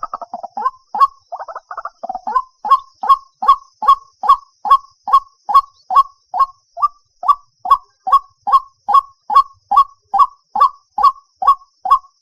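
White-breasted waterhen calling: a quick jumbled chatter for the first two seconds or so, then a steady series of short 'wak' notes, about two and a half a second.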